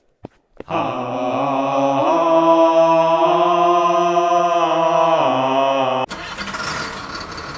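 A few clicks, then an engine starting and running with a steady pitched drone that revs up about two seconds in and drops back just after five seconds. Just after six seconds it cuts off abruptly and a rougher, noisier engine running sound takes over.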